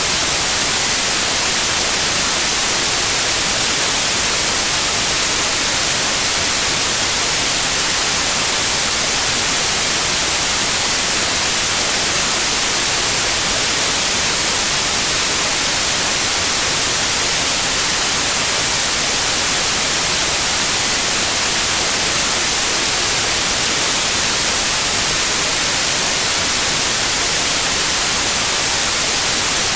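Synthetic white noise for tinnitus sound therapy: a steady, even hiss. A steady high-pitched tone at 9645 Hz switches on about six seconds in, stops about 22 seconds in, and comes back about four seconds later.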